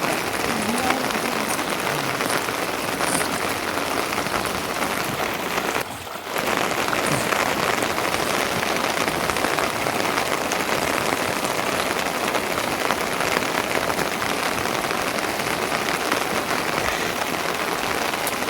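Steady rain falling, with a brief drop in level about six seconds in.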